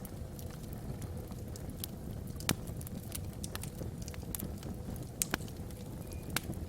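Wood fire burning in a fireplace: a steady low rumble of the flames with scattered sharp crackles and pops from the logs, the loudest pop about two and a half seconds in and more just after five seconds and near the end.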